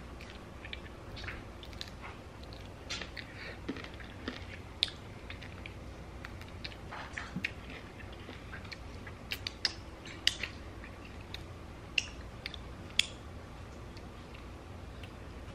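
Close-up eating sounds of chicken wings being chewed, with wet lip smacks and finger-licking clicks coming at irregular moments; a few sharper smacks stand out about five, ten, twelve and thirteen seconds in.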